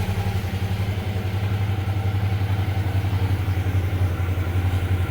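Suzuki V-Strom 650's 645 cc V-twin engine idling steadily while it warms up.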